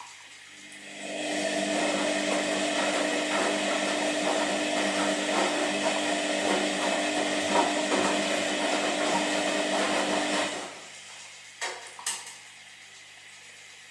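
Washing machine running one wash stroke: the motor starts about a second in and turns the drum with a steady hum and light rattling for about nine seconds, then stops. Two short clicks follow.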